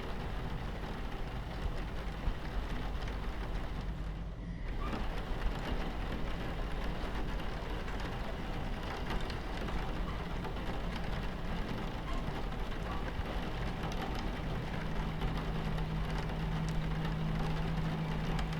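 Steady low rumble of a train running on its tracks heard from inside the carriage, mixed with rain pattering on the window. The rain's hiss drops out for a moment about four seconds in, and a steady low hum joins the rumble about two-thirds of the way through.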